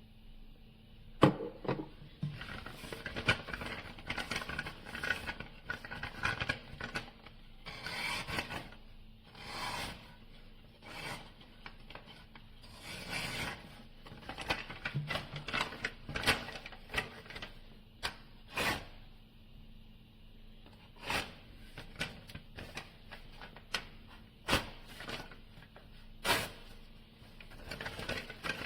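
Knife blade being drawn through the slots of a SHARPAL 101N pocket knife sharpener: repeated, irregular rasping strokes, with sharp clicks between them.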